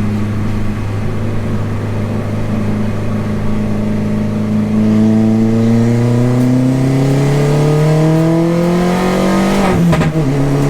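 A 300 hp Mini R55 Clubman race car's engine, heard from inside the car. It runs steadily, then rises in pitch as the car accelerates from about four seconds in. Near the end the pitch drops sharply at an upshift, then climbs again.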